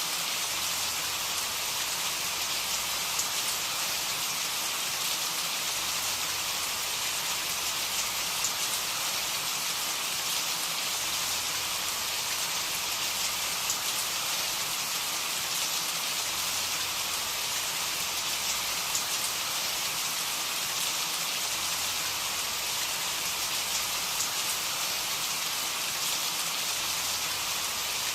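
Steady rain falling, an even hiss of drops with faint individual drop ticks and no change in strength.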